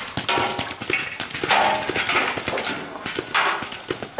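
Paintball markers firing, a rapid irregular run of sharp pops overlapping one another.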